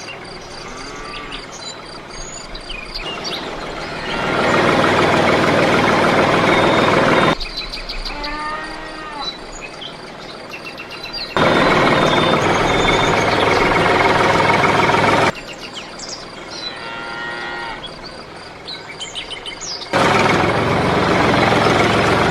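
Birds chirping, broken three times by several seconds of loud, steady noise that starts and stops abruptly.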